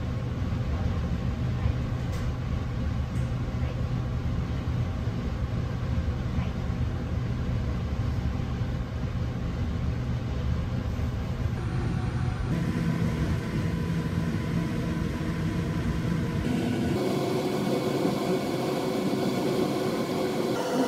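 Inside a train carriage as it pulls out of a station and rolls on: a steady low rumble of the running gear with a held hum from the motors. The sound shifts in tone twice along the way.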